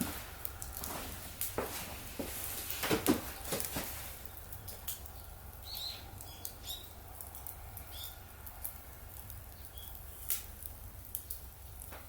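Wood fire in a fire stand crackling and popping irregularly, the pops denser and louder for the first few seconds, then sparser, with a few short high squeaks near the middle.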